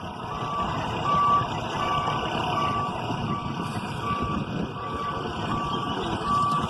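Reversing alarm of a heavy vehicle beeping at an even pace, roughly one short beep every three quarters of a second, over the vehicle's engine noise.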